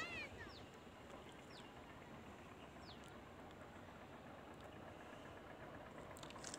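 Faint outdoor ambience with bird calls: a brief call with several stacked overtones right at the start, then a short downward-sliding whistle three times, about a second apart, in the first three seconds. A couple of faint clicks near the end.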